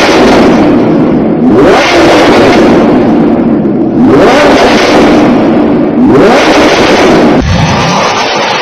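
Second-generation Audi R8's V10 engine revved hard in a parking garage, rising in pitch three times about two seconds apart and held at high revs in between. Near the end it cuts to a steadier, lower engine sound from an Audi RS7's V8.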